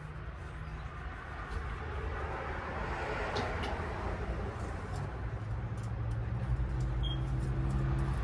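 A motor vehicle's engine running steadily, growing louder toward the end, with a brief high chirp about seven seconds in.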